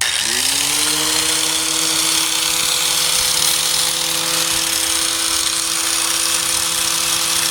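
Electric 4-1/2 in. angle grinder switching on, its motor whine rising to speed within the first half second and then holding steady. A loud, even hiss of the disc working the tailgate's sheet steel runs under the whine.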